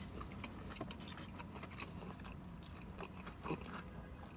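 Faint eating sounds: soft chewing and mouth noises with scattered small clicks.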